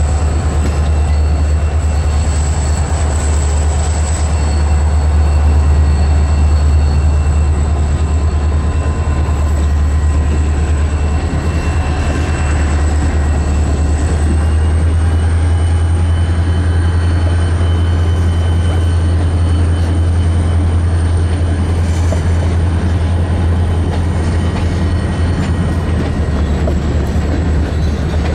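Freight train running steadily, a continuous low drone with a faint high whine that steps up in pitch about halfway through and drops back near the end.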